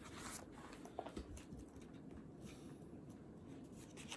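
Faint rustling and scratching at a desk, with a soft knock about a second in, over low room hum.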